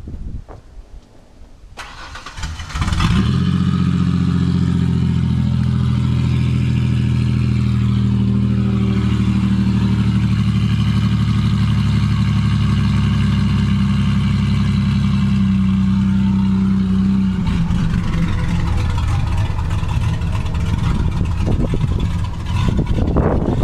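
Cold start of a cammed 1994 Ford Ranger's 4.0-litre V6: the starter cranks for about a second, the engine catches about three seconds in and settles into a loud, steady high idle. About two-thirds through the running turns choppier and less even, getting louder again near the end.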